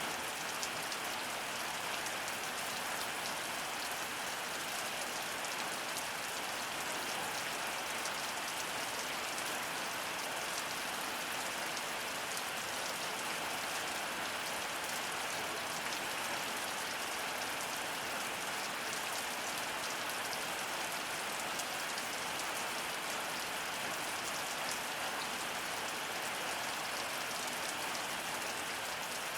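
Heavy rain falling steadily, a dense even hiss of drops hitting surfaces with fine pattering ticks, no thunder.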